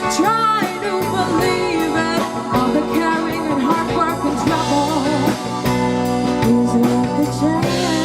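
Live rock band playing, with a drum kit keeping a steady beat under guitar and a bending melodic lead line.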